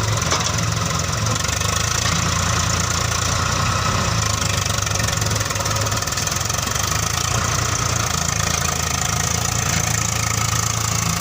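Heavy diesel engine idling steadily, with an even, fast knocking clatter and no revving.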